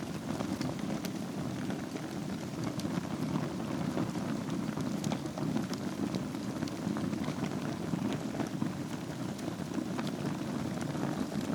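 Fire burning in a fireplace over embers: a steady low rush of flame with scattered sharp crackles and pops throughout.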